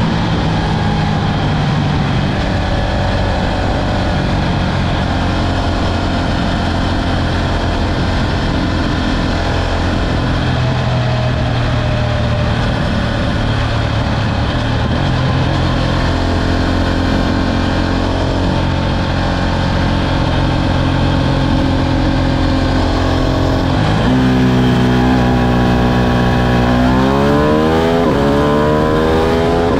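Ducati Streetfighter V2's 955 cc L-twin engine under way, holding fairly steady revs for most of the time. The pitch shifts about 24 seconds in, then the revs climb steeply under hard acceleration near the end.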